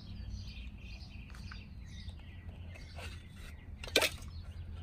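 Small birds chirping faintly over a steady low hum, with a single sharp click about four seconds in.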